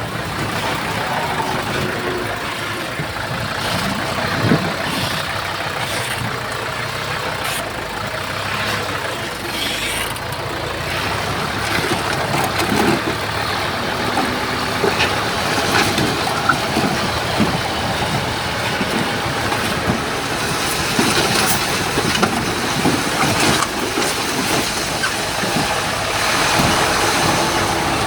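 Heavy earthmoving diesel machinery running, with scattered clanks and knocks throughout and a harsher hiss from about two-thirds of the way in.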